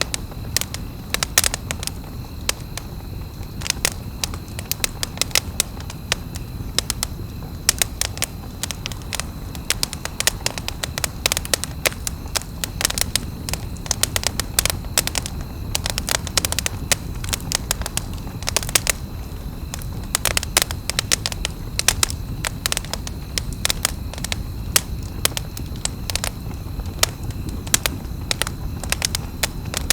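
Campfire crackling: wood snapping and popping in quick irregular clicks over a steady low rumble of the burning fire.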